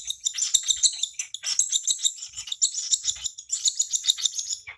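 Baby cockatiel giving rapid, high, repeated food-begging chirps while being hand-fed.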